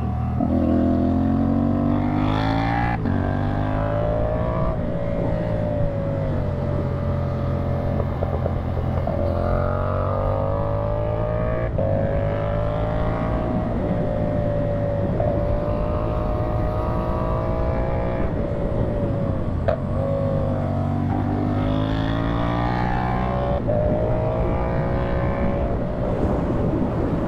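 CFMoto 450SR's parallel-twin engine through a slip-on exhaust, under way. Its revs climb and fall again and again, with sudden drops in pitch at several points, as gears are changed.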